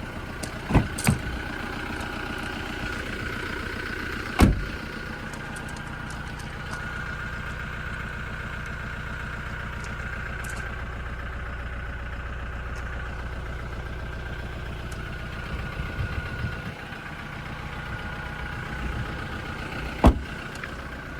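Toyota Hilux Invincible X pickup's diesel engine idling steadily, with a few sharp knocks: two about a second in, one about four seconds in and the loudest near the end.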